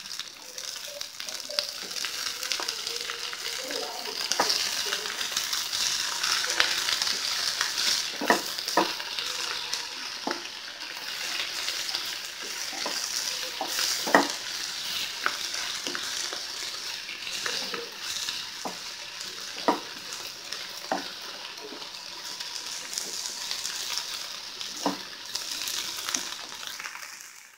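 Green chillies, onions, mint and coriander sizzling in hot oil in a pan, stirred with a wooden spatula that knocks against the pan now and then, the sharpest knock about halfway through.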